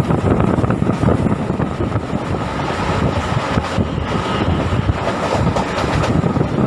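MEMU electric train running along the line: a steady rumble of wheels on the rails with rushing air, wind buffeting the microphone.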